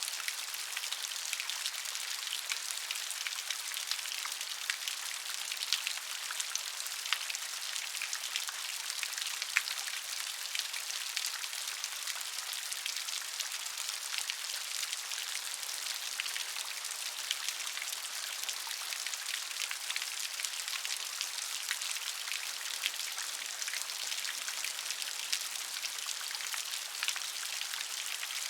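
Steady light rain falling, a continuous hiss dotted with the ticks of individual raindrops.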